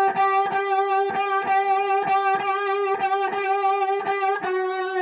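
Electric blues guitar, lightly overdriven, picking the same high note over and over, about three strikes a second, at a steady pitch.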